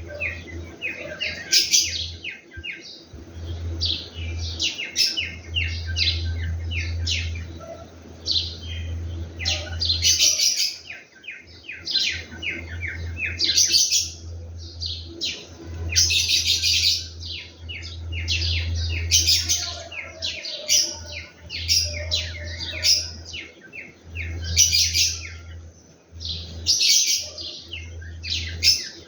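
Small birds chirping busily: rapid series of short, high chirps that come in louder bursts every few seconds, over a low steady hum.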